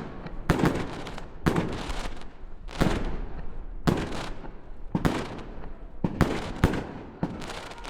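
Fireworks going off: a rapid series of sharp bangs, roughly one or two a second, with a crackling hiss between them.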